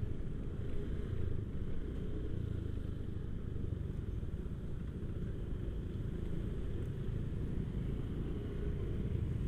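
Motorcycle running steadily while being ridden along a road, heard as an even low rumble with no changes in speed.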